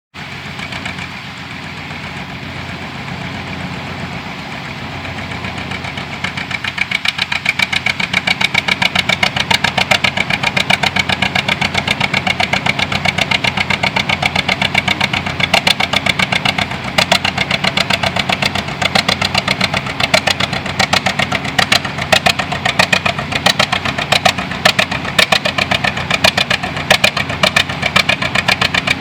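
Tractor engine running with a fast, even beat of firing pulses, getting louder about six seconds in and staying loud.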